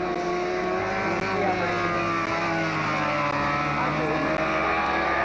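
Racing car engines running, several engine notes at once, with pitch dipping and rising as the engines are revved.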